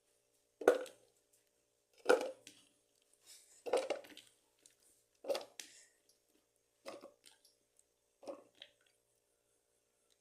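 A series of six sharp knocks or strikes at a steady pace, about one every second and a half, growing fainter toward the end.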